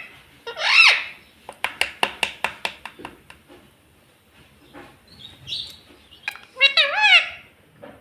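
Pet ring-necked parrot vocalising: a short, bending squawk-like call about a second in and another near the end, with a quick run of about ten sharp clicks, some seven a second, in between.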